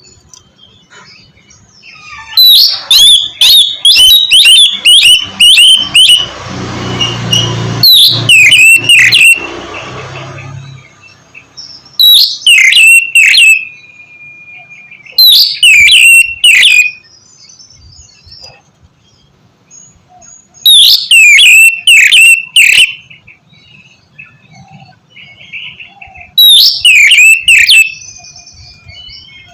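Oriental magpie-robin (kacer) singing in loud bursts of sharp, rapidly sweeping calls, six phrases of one to three seconds each separated by pauses. A rushing noise with a low rumble runs under the song for a few seconds in the first half.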